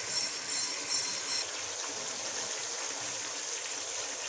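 Spice paste (nihari masala) sizzling as it fries in oil in a pot, stirred with a spoon; a steady hiss, with a few louder scrapes in the first second or so.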